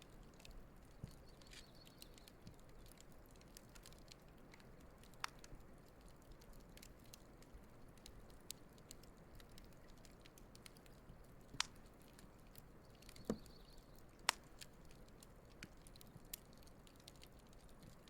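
Wood campfire burning quietly, with scattered sharp crackles and pops, the loudest few coming in the second half.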